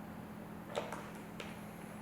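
A few light clicks and taps from a Phillips screwdriver and screws being started by hand into a motorcycle bag lid, the loudest about three-quarters of a second in, over a steady low hum.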